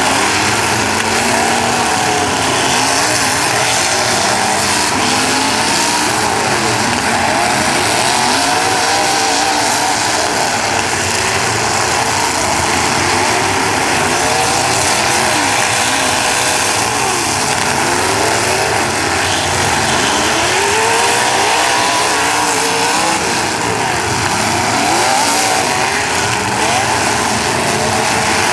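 Several demolition derby cars' engines revving at once, their pitches rising and falling over one another in a loud, continuous din.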